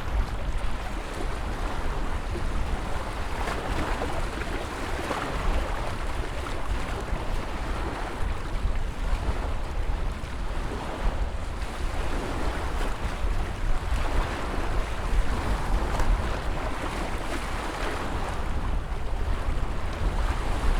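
Ocean surf washing continuously, swelling and easing every few seconds as waves break, with a steady low wind rumble on the microphone.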